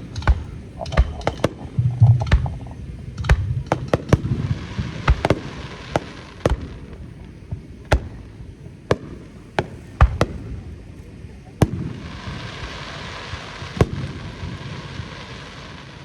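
Aerial fireworks display: many sharp bangs of shells bursting in quick succession, thinning out to single reports, with a steady hiss for a few seconds near the end.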